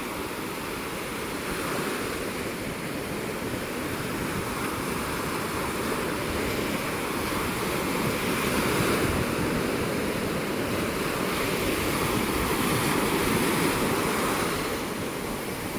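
Heavy sea surf breaking on the beach in a steady wash that swells and eases with each set of waves.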